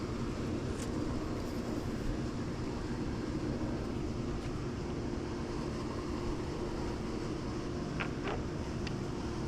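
Swimming pool pump running steadily with a low hum, pulling water through the vacuum hose. Two brief high chirps sound about eight seconds in.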